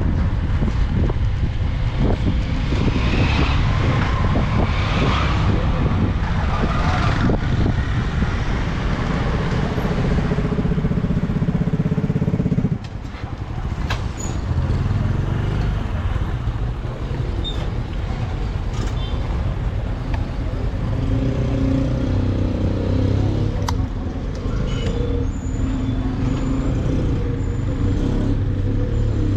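Motorcycle engine running while ridden through street traffic, with wind on the microphone; the level drops suddenly about halfway through, then picks up again.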